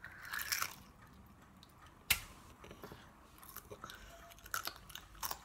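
A person biting and chewing a boiled egg with its shell still on: quiet, wet chewing with small crunchy clicks from the shell, and one sharp click about two seconds in.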